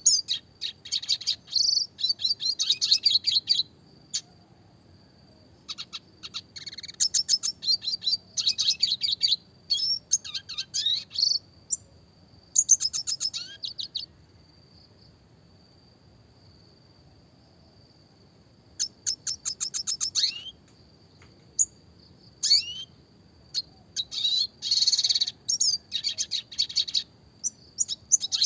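Red siskin singing in bursts of rapid trills, chirps and quick rising whistles, with a pause of about five seconds midway before the song resumes.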